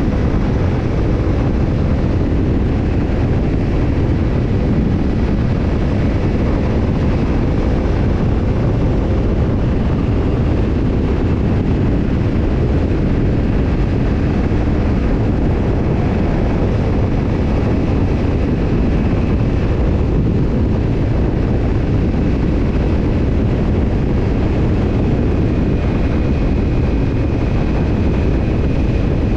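Kawasaki Ninja 250's parallel-twin engine running through a BEET NASSERT Evolution Type II titanium slip-on muffler. The loud, steady exhaust note holds an even engine speed, as when cruising.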